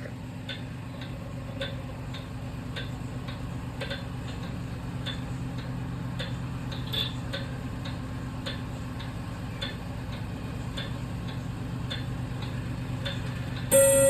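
Kienzle mechanical clock ticking evenly, a little under two ticks a second, over a steady low hum. Near the end the strike sounds with a loud ringing tone.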